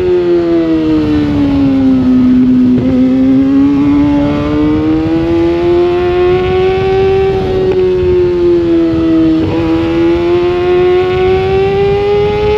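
Sportbike engine heard onboard at racing speed. Its note drops over the first two seconds, climbs steadily for several seconds, dips briefly near nine and a half seconds, then climbs again, the rise and fall of revs through a corner and back onto the throttle.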